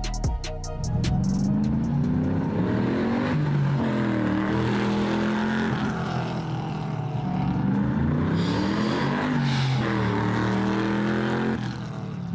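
Custom American muscle car's engine revving up and down about three times, its pitch climbing and falling with each rev.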